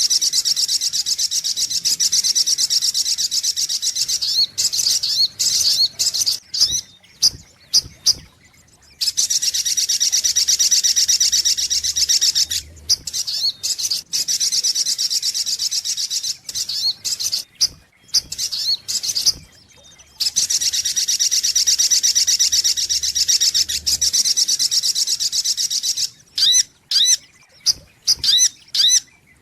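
Sogok ontong (little spiderhunter) calling: long, very fast, high trills lasting several seconds each, broken up by short sharp notes, with a quick run of separate notes near the end. This is the bird's lure call, used to draw wild birds in.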